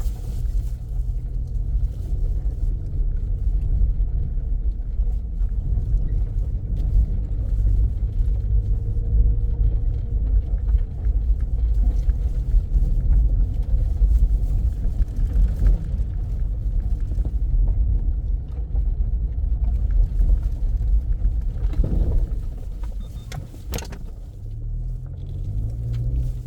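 A car driving along, a steady low rumble of engine and road noise, easing off for a few seconds near the end.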